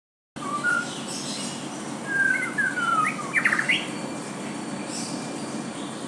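White-rumped shama (murai batu) singing clear whistled phrases: a few short notes, then falling slurred whistles, then a quick rising run of notes about three and a half seconds in, over a steady background hiss.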